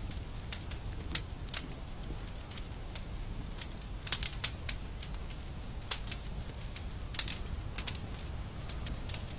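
Fire crackling in a fireplace: irregular sharp snaps and pops, a few louder ones, over a low steady rumble of the flames.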